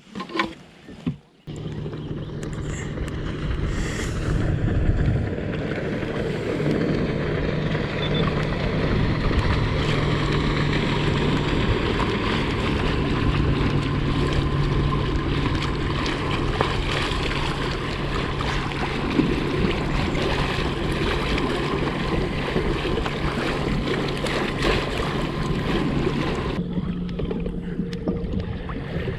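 Kayak under way across the water: a steady rush of water and wind with a low hum underneath. It starts about a second and a half in and drops away shortly before the end.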